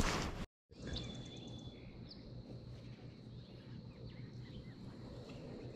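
A brief burst of noise cuts off abruptly, then faint outdoor ambience with distant bird calls. A short high chirp comes about two seconds in.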